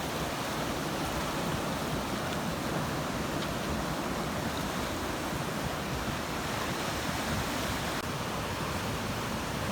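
Ocean surf: a steady rush of waves washing on a shore.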